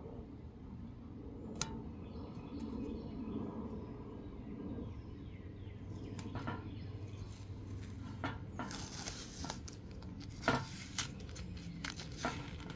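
Handling noise: scattered light clicks, clinks and knocks of parts being moved about, with a sharp click about a second and a half in and a cluster of knocks near the end.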